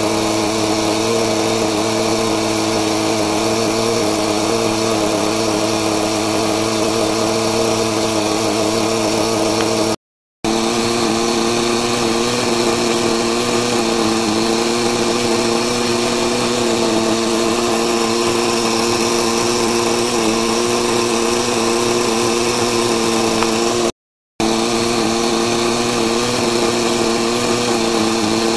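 Small two-stroke nitro glow engine of a 1/5-scale VH GP5 RC motorbike running steadily at a fairly constant speed, with a buzzy, even drone. The sound cuts out briefly twice.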